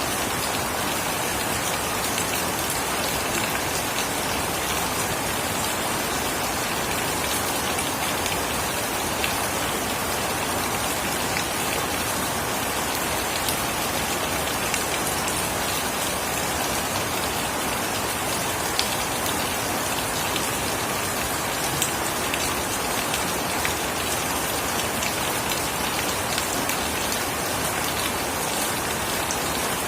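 Steady rain falling and pattering on surfaces, an even hiss with fine drop ticks throughout.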